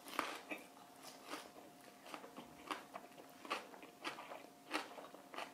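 A person chewing a mouthful of seasoned raw grenadier anchovy (ueo-hoe) with water dropwort and apple, wrapped in dried laver: faint, even chewing clicks, about two a second.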